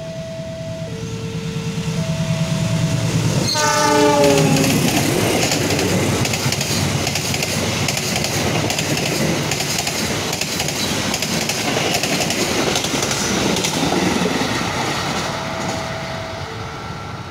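Argo Parahyangan passenger train passing at speed: its diesel locomotive gives a horn blast of about a second that drops in pitch as it goes by. The coaches then rush past with fast wheel clatter on the rails. Before the horn, and again near the end, a two-tone electronic warning chime alternates about once a second.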